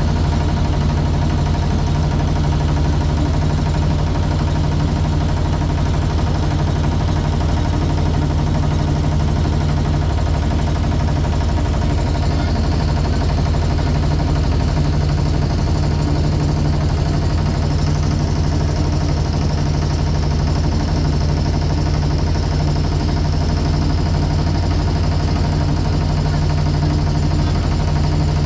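Motorboat engine running steadily at a constant pitch, heard close by from aboard the boat.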